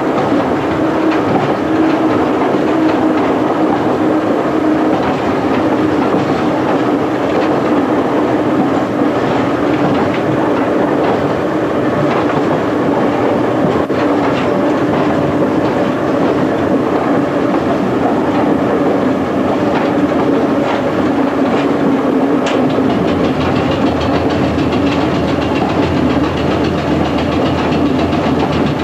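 1927-built ex-London Underground Standard stock tube train running along the line, heard from the cab: steady wheel-on-rail running noise with a steady hum, and the clickety-clack of rail joints. About two-thirds of the way through, the low rumble grows heavier.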